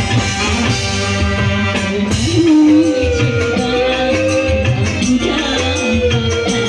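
A singer with a small live band: the voice holds one long wavering note through the second half, over a steady beat.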